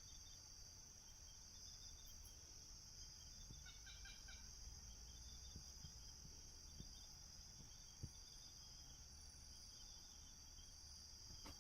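Faint outdoor ambience: a steady high insect drone, with a short run of chirps about four seconds in and a soft tick about eight seconds in.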